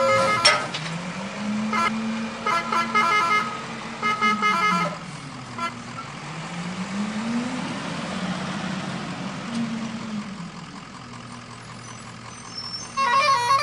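Truck engine revving up and down repeatedly, with a vehicle horn sounding three short bursts of changing tones in the first five seconds.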